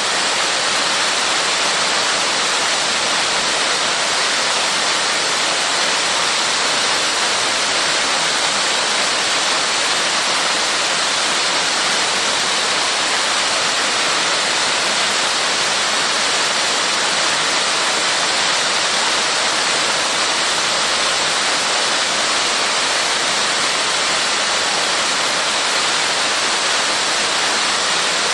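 Waterfall of about 15 m drop, a steady even rush of falling water.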